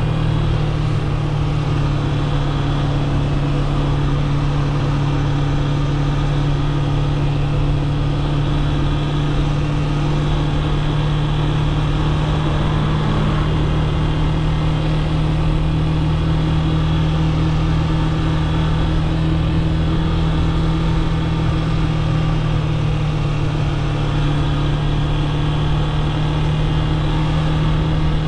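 Yamaha FZ S V3's 150cc single-cylinder engine running at a steady speed while the motorcycle rides, with road and wind noise. The engine note holds one pitch throughout.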